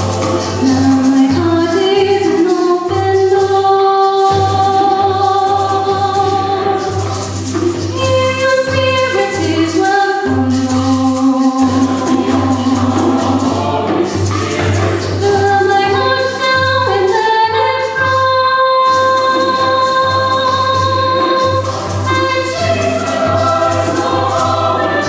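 High school choir singing a song in chords, with notes held and changing every second or two.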